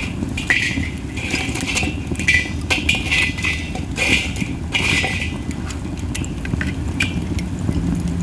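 Masaki (Japanese spindle) wood burning in a campfire, hissing in repeated flares with sharp crackles and pops scattered through. A steady low rumble of wind on the microphone runs underneath.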